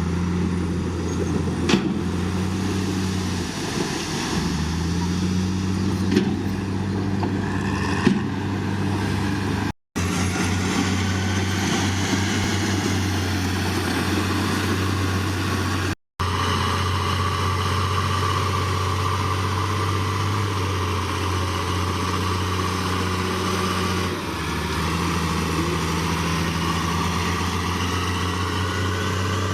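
Diesel engine of heavy earthmoving equipment running steadily with a deep, even note, and a few sharp metallic clanks in the first eight seconds. The sound drops out for an instant twice.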